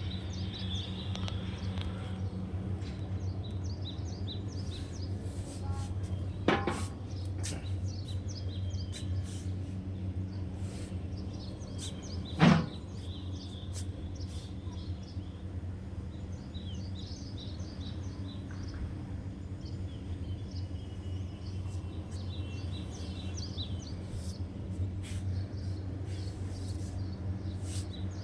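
Small birds chirping and twittering in short, high calls throughout, over a steady low hum. Two sharp clicks come about six and twelve seconds in, the second the loudest sound.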